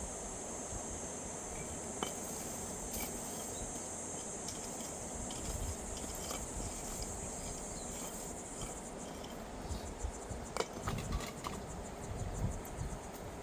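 Insects chirring in a steady high buzz that stops about nine seconds in, followed by a few scattered clicks and knocks.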